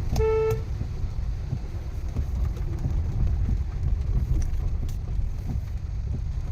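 Steady low rumble of a car being driven, with one short horn beep right at the start.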